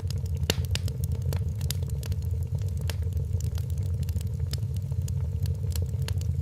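Wood fire in a fireplace crackling, with many irregular sharp pops over a steady low rumble; one pop about half a second in is louder than the rest.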